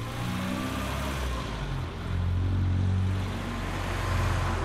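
Engine of an early motor car running steadily, getting louder about two seconds in.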